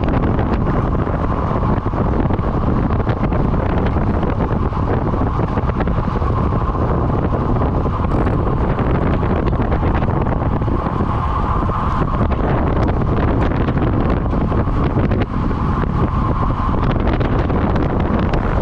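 Steady, loud wind buffeting the microphone, heaviest in the low end, with a faint hum that comes and goes underneath.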